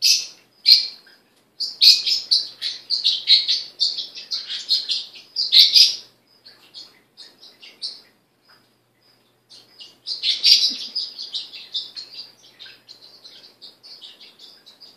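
Bird chirping and twittering in quick runs of short high notes, with a sparse stretch near the middle before it picks up again.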